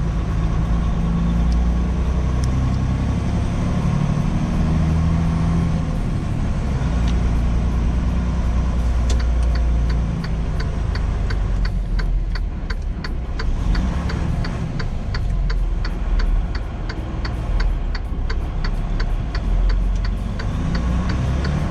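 Semi truck's engine running steadily, heard from inside the cab. From about halfway through, the turn-signal indicator ticks evenly, about one and a half to two clicks a second.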